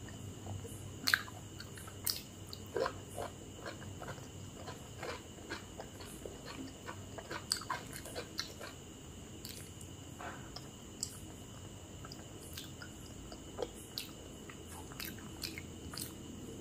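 Close-miked eating: chewing and biting food, with irregular small crunches and wet mouth clicks.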